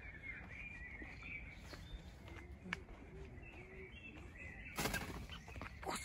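Birds chirping, with short high calls mostly in the first second or so, over a faint outdoor background. A brief rustling noise about five seconds in.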